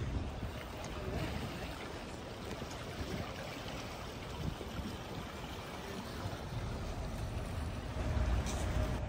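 A boat's steady low rumble with a rushing, water-like noise, growing louder about eight seconds in.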